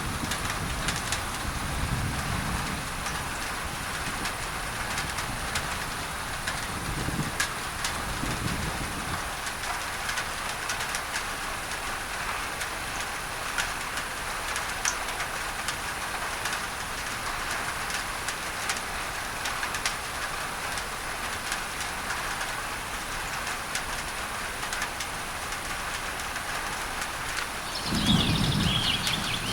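Steady rain on a tin roof mixed with a bed of masking noise, the drops heard as scattered sharp ticks. Distant thunder rumbles low about two seconds in and again around seven to nine seconds. A louder rumble comes near the end, with a bird chirping over it.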